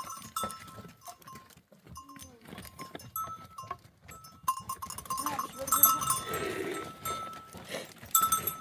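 Bells on a flock of sheep and goats clinking on and off as the animals move, with an animal bleating about six seconds in.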